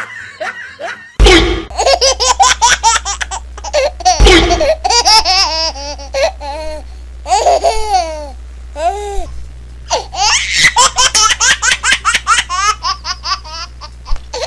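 Repeated bursts of high, giggling baby-like laughter, an added laugh sound effect, starting about a second in, with a short lull just past the middle.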